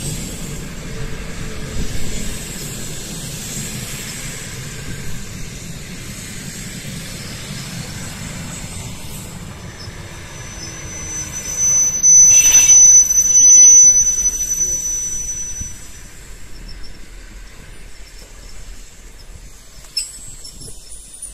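Passenger train rolling slowly past with a low rumble of its cars, then a high, steady squeal of brakes or wheels lasting about five seconds around the middle, loudest for a couple of seconds. The rumble fades as the train comes to a halt.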